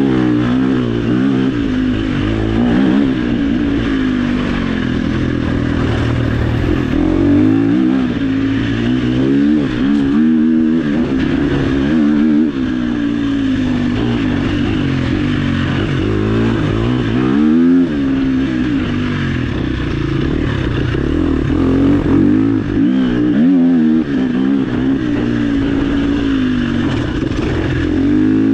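Dirt bike engine running hard on an off-road trail, revving up and down again and again as the rider works the throttle and gears.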